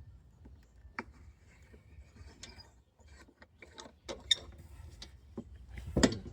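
Scattered mechanical clicks and light knocks of tools and boards being handled during table assembly, with a sharper knock near the end.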